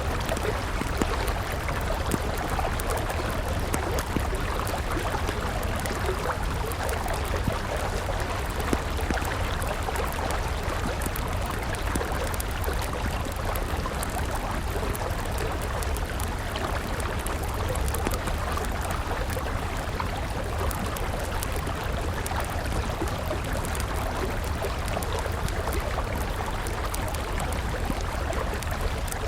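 A river flowing steadily, with the small sharp crackles and pops of a burning wood campfire scattered over it.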